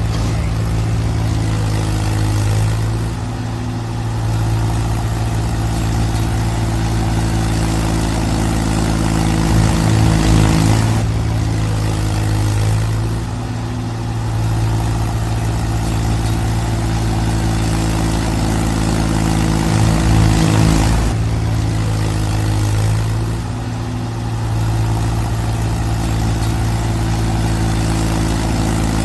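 Mahindra tractor's diesel engine running steadily under load, its note swelling and easing about every ten seconds.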